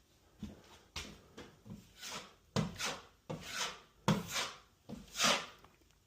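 A putty knife spreading and scraping joint compound over a drywall patch: about a dozen short rasping strokes, roughly two a second, louder in the second half.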